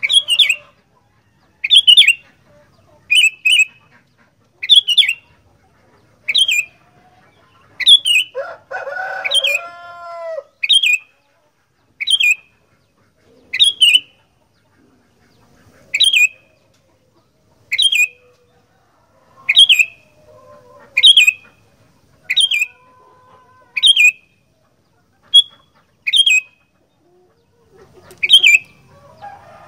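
Sooty-headed bulbul (kutilang) giving a short, sharp, high call over and over, about one every one and a half seconds. A lower, rolling call from another bird comes in about nine seconds in.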